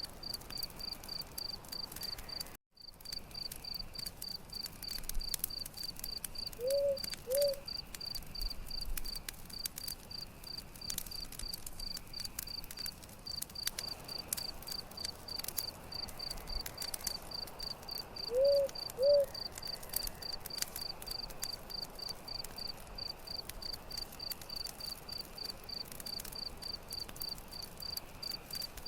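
Crickets chirping in a steady, even pulse over the scattered crackle of a campfire. Twice a short two-note call stands out as the loudest sound, and the audio drops out for a moment about two and a half seconds in.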